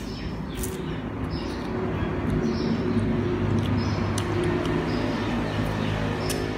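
Close-up eating sounds of a man chewing spicy chicken wings, with wet mouth smacks and sharp clicks, over a steady low hum.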